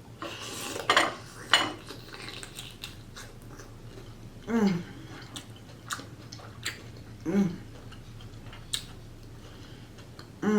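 A person eating a shrimp and corn seafood boil: rustling and sharp clicks of handling the food and dishes in the first couple of seconds, chewing, scattered clicks, and two short falling hums of enjoyment.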